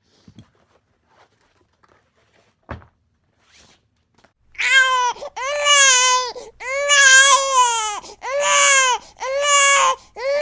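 A high voice crying or wailing in a string of about six loud cries, each about a second long and arching in pitch, starting about four and a half seconds in. Before that there are only a few faint clicks and a knock.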